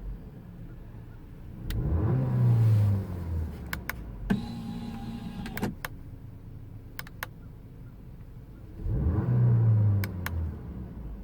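2018 Audi A5 Coupe's 2.0-litre turbocharged four-cylinder idling, blipped twice: a short rev rising and falling back about two seconds in, and again near the end. A few sharp clicks sound between the revs.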